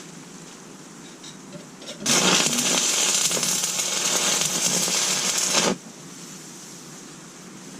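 Stick welder arc crackling and sizzling in one burst of about three and a half seconds, starting about two seconds in and cutting off sharply when the arc is broken.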